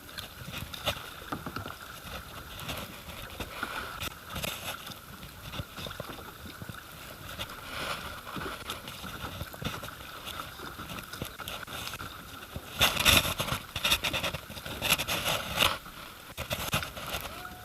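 Kayak paddle strokes dipping and splashing in river water, with a louder run of splashes near the end.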